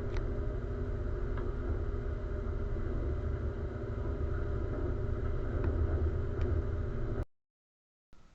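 Steady engine rumble with a low hum, which stops abruptly about seven seconds in.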